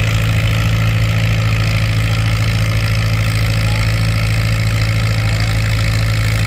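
Antique farm tractor engine running loud and steady at an even pitch, with a strong low drone, working under load as it pulls the sled.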